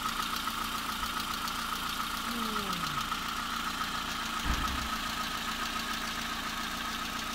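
Volkswagen Polo 3 engine idling cold with a fast, light ticking from the valve train under the valve cover; the owner says the ticking fades as the engine warms up. A brief low thump about four and a half seconds in.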